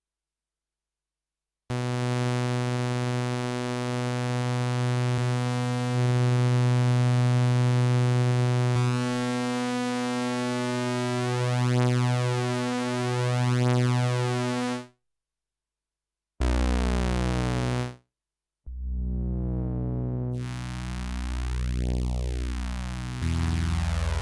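Sequential OB-6 analog synthesizer holding a sustained low note, dry with no effects; after several seconds its tone starts to pulse and shimmer as the pulse width is modulated. After a brief stop it plays lower bass notes, with a notch in the filter sweeping up and back down near the end.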